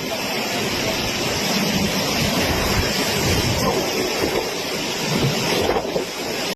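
Steady rushing noise of a storm's wind and rain.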